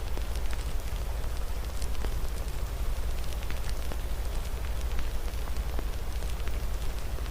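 Fireplace fire crackling with irregular sharp pops over a steady hiss of rain, with a constant low rumble underneath.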